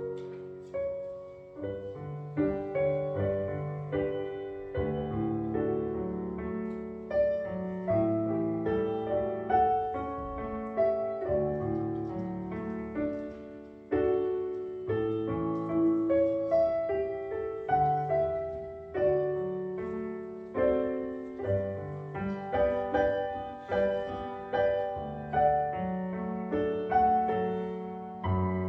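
Solo piano playing a slow instrumental piece as a worship prelude, its notes struck one after another and each ringing and fading.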